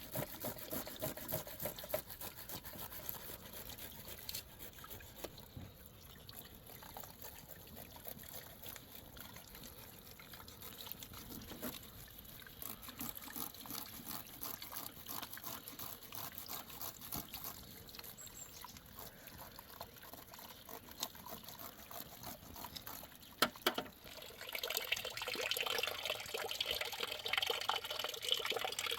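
Water trickling and splashing, with small ticks throughout. A sharp knock comes near the end, and right after it the water runs louder and brighter, like water being poured.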